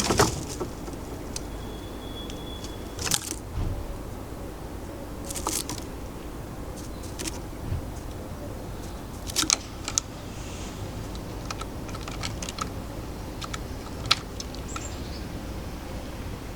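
Birds feeding at a garden feeder make irregular sharp taps and clicks, about half a dozen louder ones spaced a few seconds apart, over a steady low background hum. A thin high whistled note is held for about a second around two seconds in.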